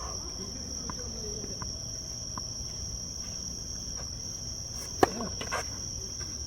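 Steady high drone of insects, with a few faint ticks and then one sharp hit about five seconds in, a racket striking a tennis ball.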